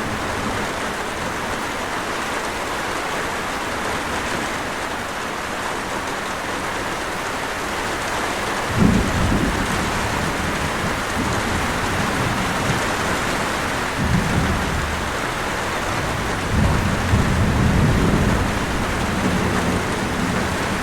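Steady heavy rain hissing, with rolls of distant thunder rumbling in about halfway through and again twice near the end.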